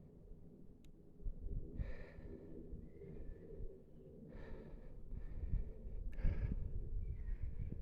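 A person breathing close to the microphone: a few slow, audible breaths about two seconds apart, over a low rumble.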